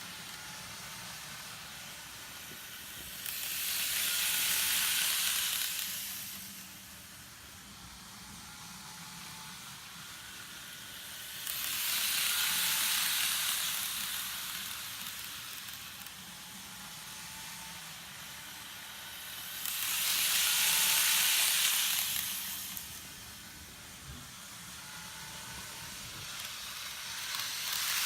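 N-gauge model trains running on a double-track layout: a steady hiss of wheels on rail with a faint motor whine, swelling louder each time a train passes close, about every eight seconds.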